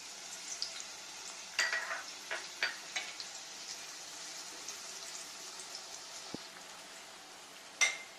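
Onions sizzling as they fry in hot coconut oil in a pan. Several sharp knocks of a utensil against the pan come about a second and a half in, with a louder one near the end.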